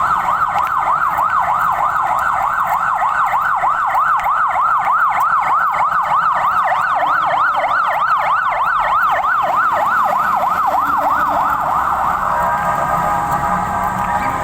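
Siren sounding for an earthquake-drill evacuation, a loud fast warble rising and falling about three or four times a second. About twelve seconds in it changes to a steadier, held tone.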